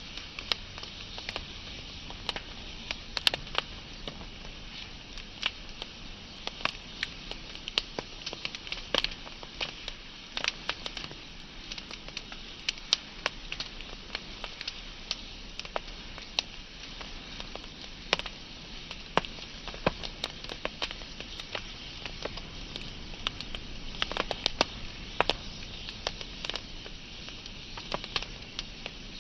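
Wood fire crackling and popping: a steady hiss of burning with frequent irregular sharp snaps of varying loudness.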